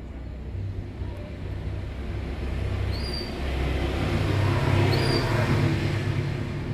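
A motor vehicle passing, its engine hum and road noise swelling to the loudest point a little past the middle and then easing off. A few brief high chirps from lovebirds sound over it, about three and five seconds in.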